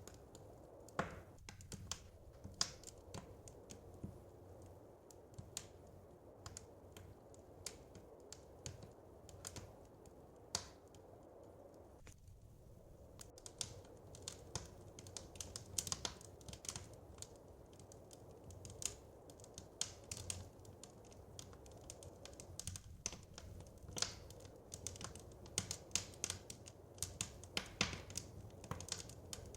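Wood fire crackling: irregular sharp pops and snaps over a low steady rush, the pops coming thicker in the second half.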